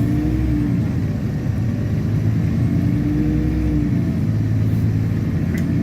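LiAZ-6213.65 articulated city bus under way, heard from inside the cabin: a steady engine and drivetrain hum. Over it a whine holds, breaks off about a second in and again near the four-second mark, then comes back each time.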